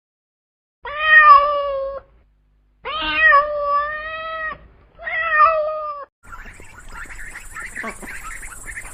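A cat meowing three times in long, drawn-out meows, the middle one the longest. A different, noisier sound with hiss and scattered short calls follows near the end.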